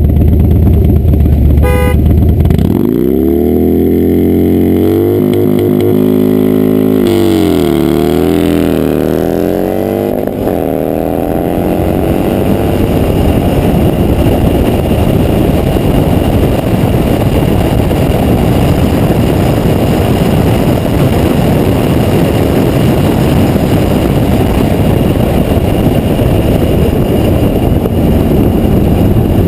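A vehicle engine running low and steady, then revving up in a long rising pull that breaks around seven seconds in and wavers in pitch for a few seconds. After that comes a loud, steady rushing noise. A brief beeping tone sounds about two seconds in.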